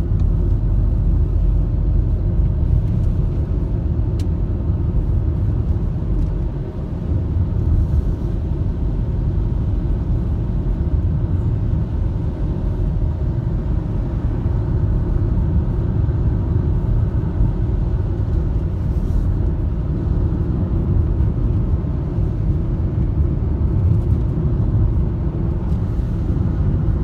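Steady low rumble of a motor vehicle driving, with a faint even hum from the engine.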